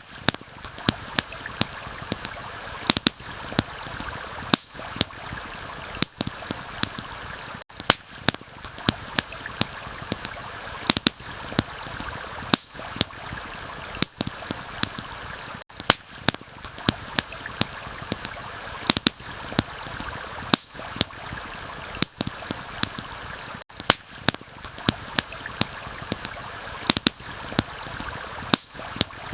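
A steady rushing stream, with a campfire crackling over it in frequent, irregular sharp pops and snaps.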